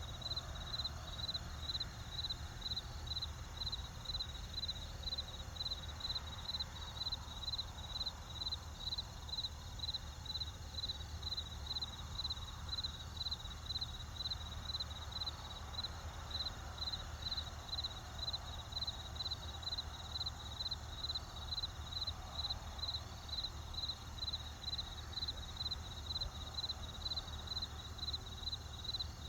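Crickets chirping in a steady, even rhythm, about two chirps a second, over a soft low background hiss.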